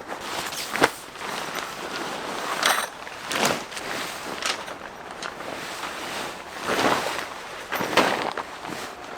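Footsteps with irregular crunching, rustling and a few sharp knocks as someone moves about a campsite.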